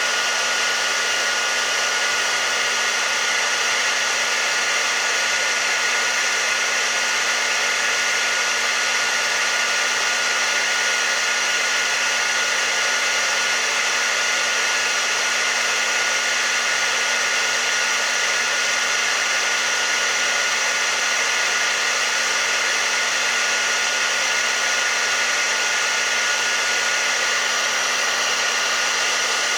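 Hair dryer running steadily on a constant setting: an even blowing rush with a faint steady whine, unchanging throughout, used as white noise to soothe a colicky baby to sleep.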